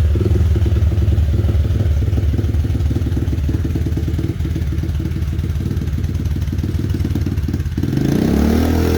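Dirt bike engine running steadily with a fast pulsing beat, then revving up, its pitch rising, in the last second or so.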